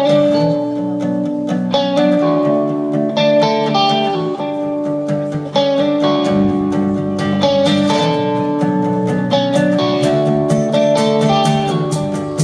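Live acoustic guitars playing an instrumental song introduction, with strummed and plucked chords changing every second or two.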